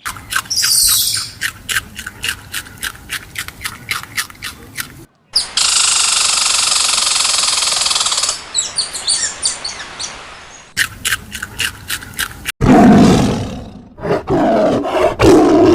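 Several animal sounds cut one after another: a run of rapid repeated clicking calls, then a steady loud hiss for about five seconds, more rapid clicks, and loud deep roaring calls in the last three seconds.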